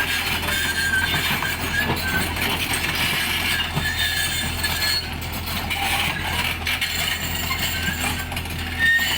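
Truck engine running steadily as the truck is manoeuvred slowly, with scattered metallic clinks and rattles.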